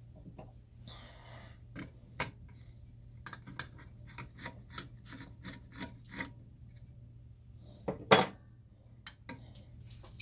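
Hand work on a Leslie 122 amplifier's metal chassis: a short scrape, then a run of small clicks and scrapes about two a second, and one louder knock near the end.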